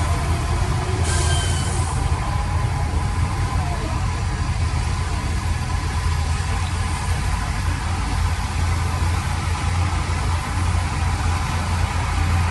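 Heavy machine's diesel engine running steadily with a deep hum, with a short hiss about a second in.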